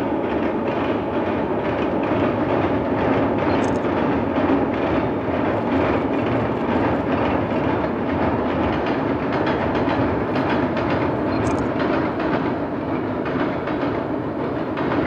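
A locomotive-hauled passenger train rolling steadily across a steel truss viaduct, a continuous rumble with a rapid clatter of wheels over the rails.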